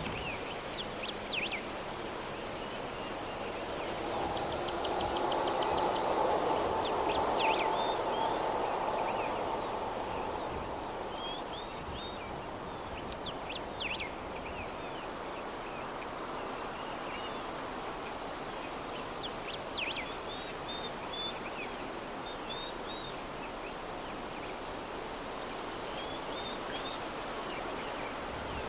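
Soft steady breeze, swelling louder for a few seconds early on, with small birds chirping now and then.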